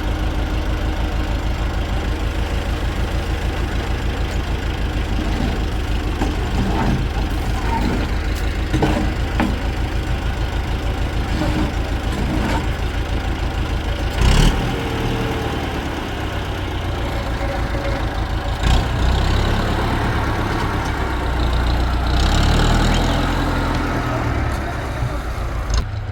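An engine idling with a steady low throb. About halfway through there is a sharp knock, after which the engine note turns uneven, with a few more knocks later on.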